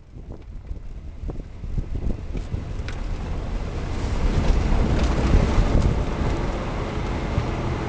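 Low rumbling noise with wind buffeting the microphone, building in loudness over the first four seconds and then holding steady.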